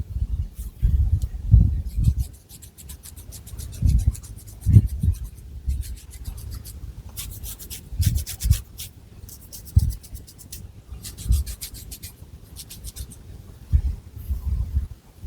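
Long fingernails scratching through thick hair on the scalp: several runs of rapid, fine scratches, with dull low thumps and rubbing in between.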